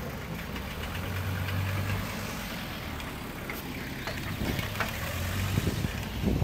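Car engines idling close by in a line of slow traffic: a low steady hum that grows stronger twice as the bike passes.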